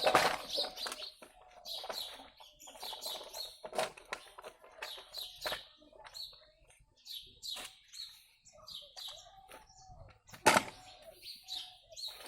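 Birds chirping, with scattered sharp knocks; the loudest knocks come at the very start and about ten and a half seconds in.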